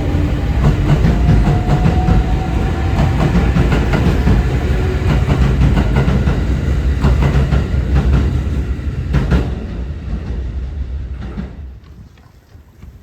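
A train passing on the tracks, its wheels clattering over the rail joints, then fading away over the last few seconds.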